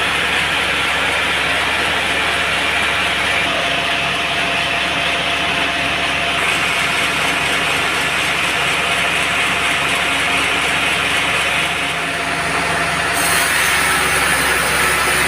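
Band sawmill running steadily, its blade cutting through a teak log. About twelve seconds in the sound dips briefly, then turns brighter and hissier.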